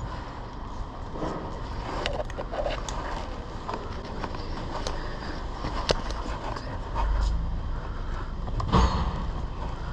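Road and traffic noise heard from a bicycle being ridden through city streets, with a low buffeting rumble that swells a few times and scattered rattling clicks from the bike.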